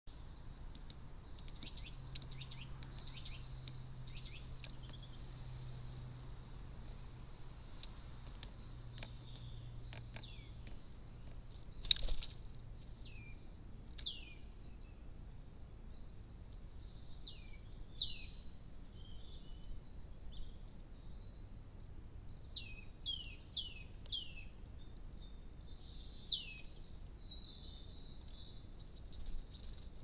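Small birds calling in the background: short chirps that slide downward, coming singly and in quick runs of three or four, over a steady hiss. A single sharp knock about twelve seconds in is the loudest sound.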